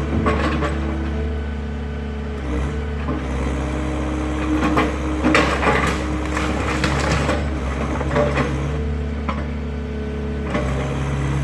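Excavator's diesel engine running steadily while the machine crushes and breaks apart the wooden garage, with bursts of cracking and crashing near the start, around five to six seconds in and again near eight seconds.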